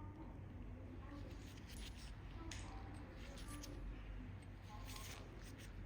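Faint, scattered small clicks and snips of metal pedicure tools, nail nippers cutting and tapping at a toenail, over a low room hum.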